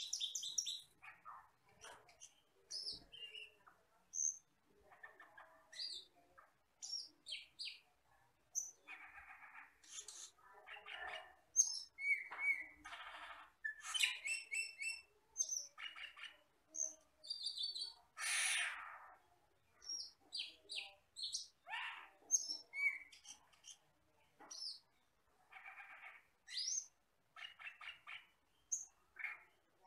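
Camperling (cucak keling), likely the Asian glossy starling, calling: a long run of varied chirps, sharp whistles and harsher buzzy notes in irregular bursts.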